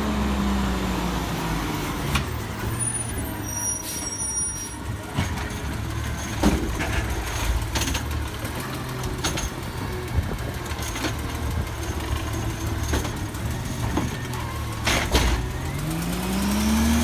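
Garbage truck engine winding down from high revs to idle, idling with scattered sharp knocks, then revving up again near the end.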